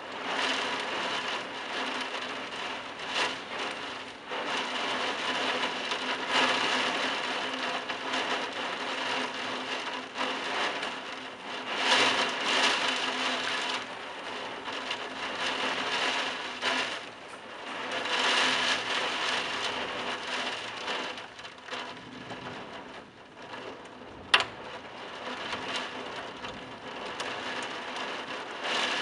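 Torrential wind-driven rain pouring onto a terracotta tile roof, swelling and easing with the gusts. A single sharp click stands out near the end.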